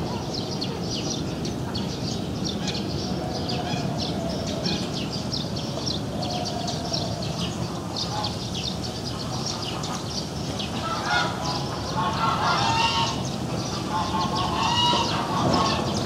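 Birds calling: quick high chirping runs throughout, and goose-like honking calls join in and grow louder over the last few seconds.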